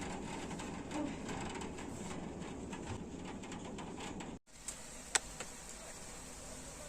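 Rain shower pattering, a steady hiss with many small drop ticks. The sound cuts out for a moment about four and a half seconds in, then goes on quieter, with one sharp tick soon after.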